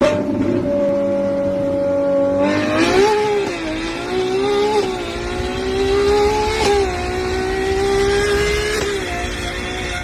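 Straight-piped Ferrari engine running loud under load. It holds steady revs, picks up sharply about two and a half seconds in, then climbs slowly with small wobbles and eases off near the end.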